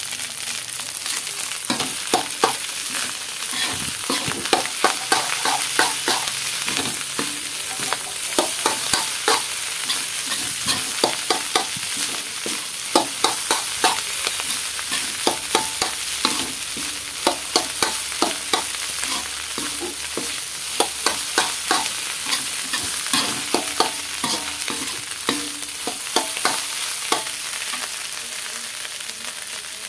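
Egg fried rice sizzling in a metal wok while a metal spoon stirs and scrapes it, the spoon clicking against the pan again and again over a steady hiss. The rice is being fried until slightly dry.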